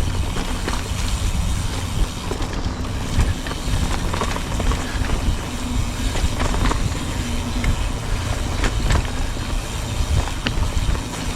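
Mountain bike riding along a dirt trail: a steady low rumble of tyres and wind on the camera microphone, with scattered clicks and rattles from the bike over the ground.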